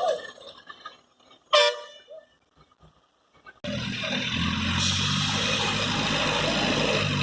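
A short vehicle horn toot about a second and a half in, amid near quiet. From about three and a half seconds a vehicle engine runs steadily.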